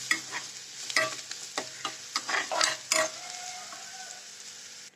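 Onion and spices frying in oil in a kadai, sizzling steadily, while a spoon stirs and scrapes against the pan in quick strokes; the stirring stops about three seconds in, leaving just the sizzle.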